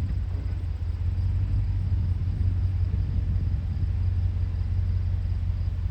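Pickup truck engine running steadily with a low, even drone.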